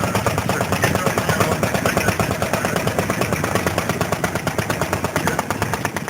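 Vintage stationary engine running, its exhaust giving a rapid, even string of sharp pops.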